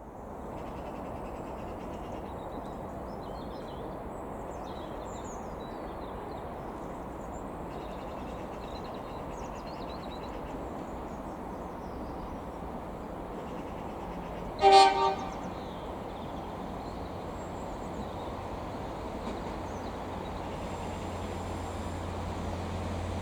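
Irish Rail 22000 Class diesel multiple unit sounding a single short two-tone horn blast about two-thirds of the way through, over a steady background hiss. Over the last few seconds the low hum of its diesel engines grows louder as the train approaches.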